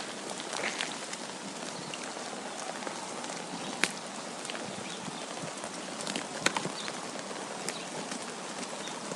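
Falling snow pattering on surfaces: a steady hiss with scattered small ticks, and two sharper ticks about four and six and a half seconds in.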